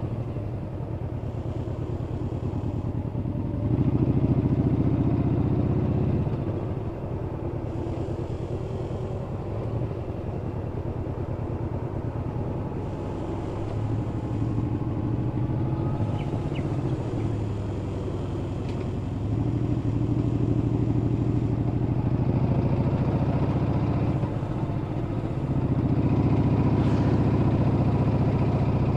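Yamaha Bolt XVS950CU's air-cooled V-twin engine running as the bike is ridden. It is louder while pulling under throttle about four seconds in, around twenty seconds in and again near the end, and quieter while easing off in between.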